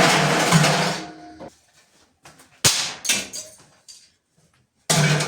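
LG washing machine running with a loud, noisy rattle over a steady hum, which cuts off about a second in. A few separate sharp bangs and knocks from the machine follow.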